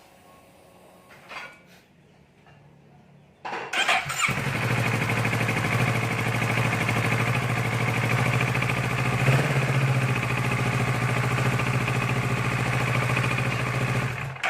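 Kawasaki Z650 motorcycle engine cranks briefly and catches about four seconds in, then idles steadily and is shut off suddenly at the end. It starts now that its dog-chewed ignition wiring has been spliced back together.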